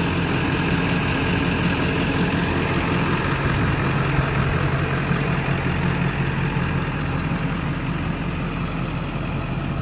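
Ford F450 crane truck's engine idling steadily with a low hum; about three and a half seconds in, one low tone in the hum grows stronger.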